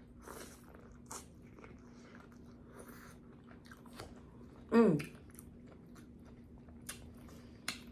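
Close-miked eating of sweet corn on the cob: faint bites, chewing and wet mouth smacks and clicks, scattered and irregular. A brief vocal sound falling in pitch comes just before five seconds in.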